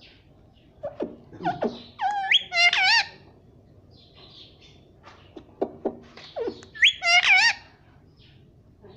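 Indian ringneck parrot chattering in two bursts of wavering, warbling calls, about two seconds in and again about seven seconds in, with short clicks in between.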